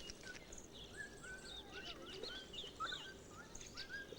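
Birds chirping and whistling in quick short notes that bend up and down, several a second, over a faint steady background hum of outdoor ambience.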